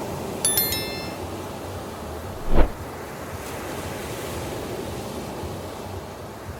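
Ocean surf washing steadily on a beach, with wind on the microphone. Under a second in there is a brief high ringing of several bell-like tones, and about two and a half seconds in a short loud low thump.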